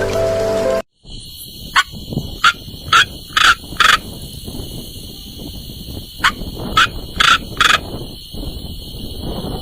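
A brief snatch of music cuts off about a second in. It is followed by a steady, high-pitched insect drone and about nine short, sharp animal calls, each sweeping down in pitch, in two quick clusters.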